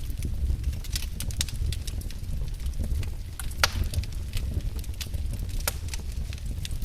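Wood fire burning in a fireplace: a steady low rumble of flames with irregular sharp crackles and pops, one louder pop a little past the middle.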